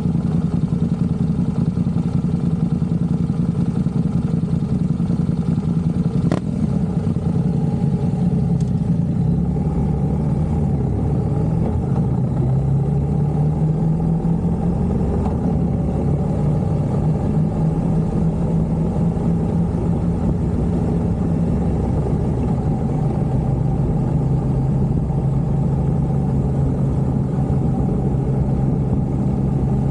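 Motorcycle engine running steadily under way, its pitch climbing a little about ten to fifteen seconds in and then holding at a steady cruise.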